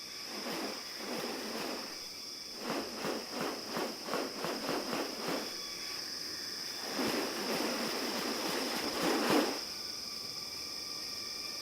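Rainforest ambience with a steady high insect drone. Over it come short noisy bursts: a quickening run of about nine in the middle, then a louder, longer burst shortly before the end.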